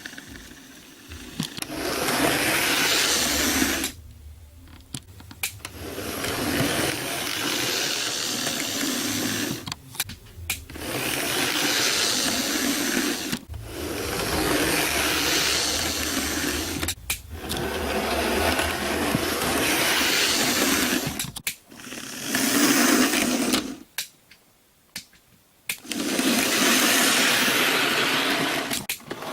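Bachmann Thomas model train's small electric motor whirring, with its wheels running on the track. It runs in spells of a few seconds and drops out briefly about six times.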